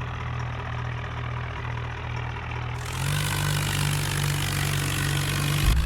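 Tractor diesel engine running steadily, its pitch stepping up slightly about halfway through.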